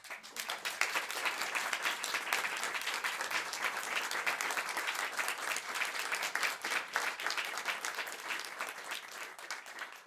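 Audience applauding: dense clapping that breaks out suddenly from silence, holds steady, and starts to taper off near the end.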